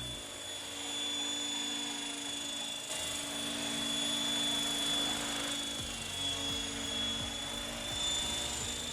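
Esky 900 RC helicopter running, with a steady high motor whine over the hum of the spinning rotor.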